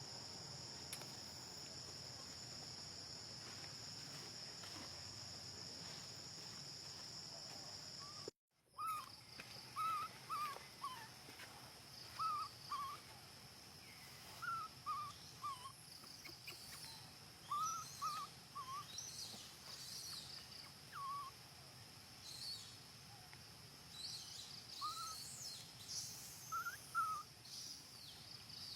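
Insects trilling steadily. About eight seconds in the sound cuts out, and repeated short chirping animal calls follow, coming every second or two over the insect background.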